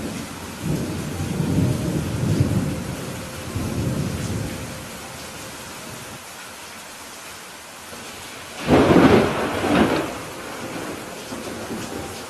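Steady rain with thunder. A low, rolling rumble runs through the first four seconds or so, then a louder, sharper thunderclap comes about nine seconds in and lasts about a second and a half.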